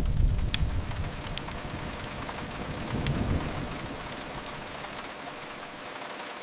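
Steady rain with the sharp pops of a crackling wood fire, over a low rumble that fades within the first second or two and swells again briefly about three seconds in.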